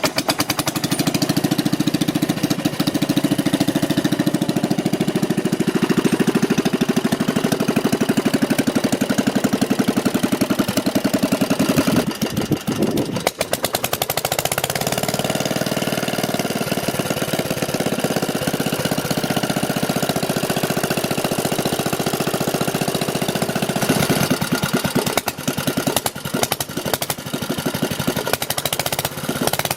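Bernard W110 4-horsepower single-cylinder engine running steadily with a rapid, even beat. The sound dips briefly and shifts about twelve seconds in.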